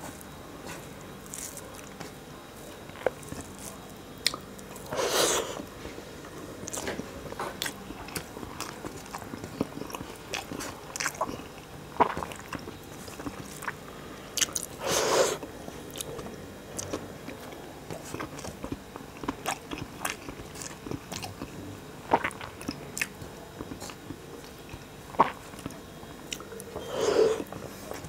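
A person chewing and biting mouthfuls of rice and fried bitter gourd with potato, picked up close by a clip-on microphone. Many small crisp clicks run throughout, with three louder, longer mouth noises about ten seconds apart.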